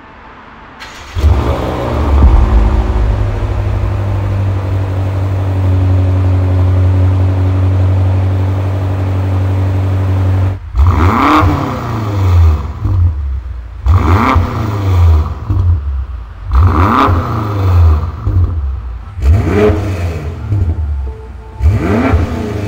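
BMW M8's twin-turbo V8 starts about a second in with a loud flare and settles into a steady idle. From about ten seconds in it is revved five times through its quad exhaust, each blip rising and falling away.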